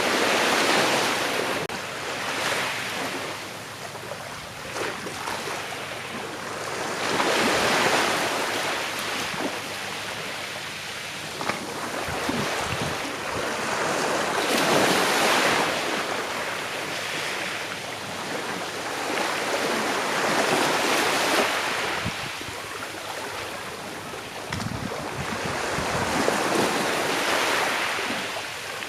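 Calm sea waves washing onto a shore, each wave swelling and then draining away, about one every six seconds.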